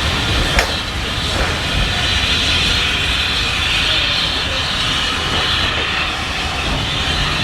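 Train running steadily: a continuous low rumble with a steady hiss over it, and a single sharp knock about half a second in.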